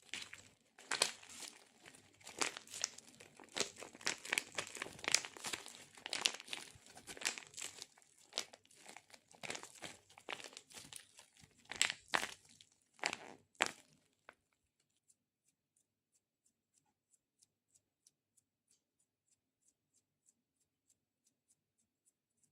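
Close-up sticky crackling and peeling, like a tacky surface being pressed and pulled apart, with a few sharper snaps near the end; it stops about two-thirds of the way in, leaving only faint regular ticks about twice a second.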